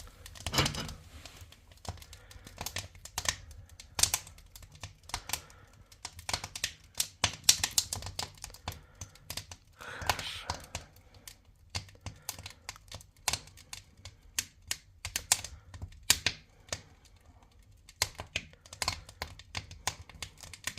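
Wood fire crackling in a fireplace: irregular sharp pops and snaps, sometimes several in quick succession, over a faint low hum.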